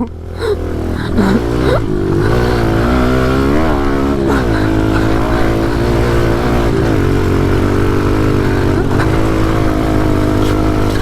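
Pit bike engines running and revving up and down repeatedly as the bikes are ridden hard around a race course.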